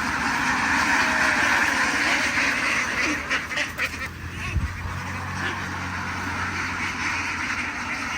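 A large flock of farm ducks quacking together in a dense, continuous chorus, loudest in the first half. A low steady hum joins about halfway through.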